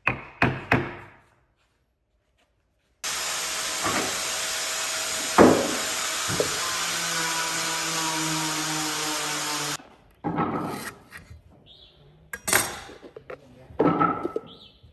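A woodworking power tool running steadily on wood for about seven seconds, starting and stopping abruptly, with a few knocks in it. Before and after it come sharp knocks and taps of wood being handled and struck.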